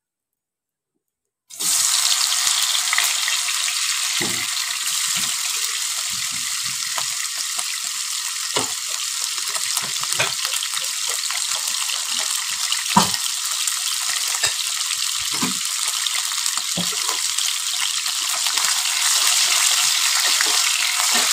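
Paneer cubes, dusted with flour, sizzling steadily as they fry in hot refined oil in a kadai, starting about a second and a half in. A few soft knocks sound through it, and a spatula turns the cubes near the end.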